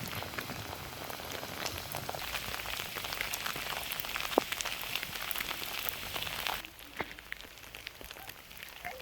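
Rain falling, a steady hiss with many separate drop ticks. It drops suddenly to a quieter level about two-thirds of the way through.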